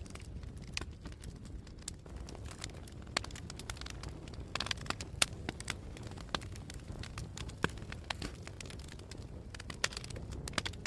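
Wood fire burning in a fireplace: a steady low rumble under frequent sharp crackles and pops, with a quick run of them about halfway through.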